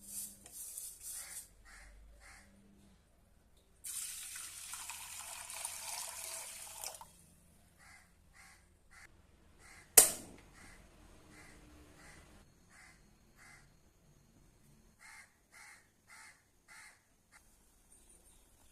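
Water running for about three seconds, then a single sharp clank like a metal utensil, the loudest sound. Short calls from a bird, repeated many times, sound throughout.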